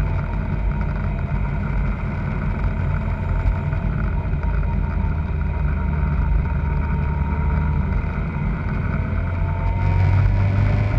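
Kawasaki ZZR600's inline-four engine running under way, with wind rush over the bike. Its note eases down at the start, holds steady, then climbs near the end as the bike accelerates.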